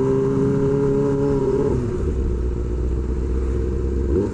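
Kawasaki Ninja ZX-25R's 249 cc inline-four running through an SC Project exhaust. It holds a steady high note, drops to a low idle about two seconds in, and revs start climbing again near the end.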